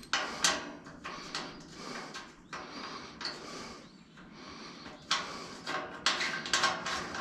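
Metal hardware of a fuel caddy being handled and fitted by hand: a run of irregular clicks, clinks and short scrapes as a nut is worked onto a stud.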